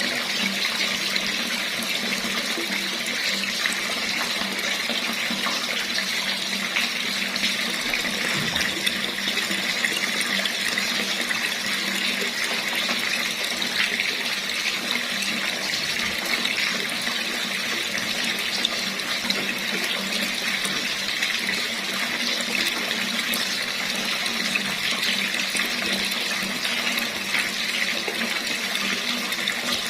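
Water running steadily from a tap, an even splashing rush that does not change.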